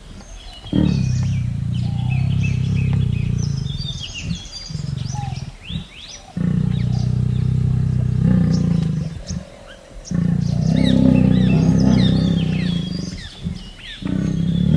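A big cat roaring: three long, low roars a few seconds each, with short pauses between them. Birds chirp steadily in the background.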